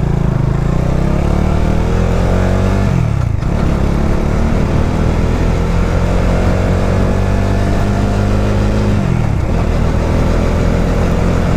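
Motorcycle engine pulling away and accelerating, its pitch climbing and then dropping at an upshift about three seconds in, climbing slowly again and dropping at a second upshift near nine seconds in.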